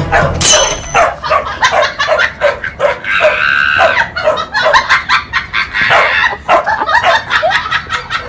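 A dog barking and yipping over and over, about three short calls a second, with one longer drawn-out call about three seconds in.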